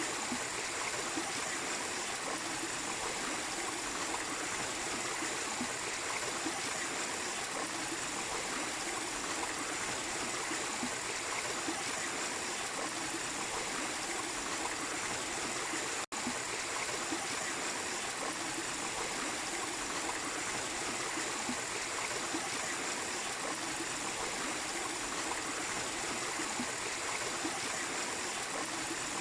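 Steady rushing and splashing of a small waterfall and stream running over rocks, with a split-second dropout about halfway through.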